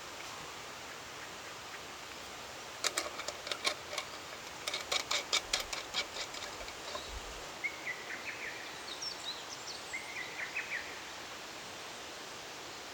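Steady outdoor hiss with a quick run of sharp clicks and ticks a few seconds in, then two short bird chirps near the end.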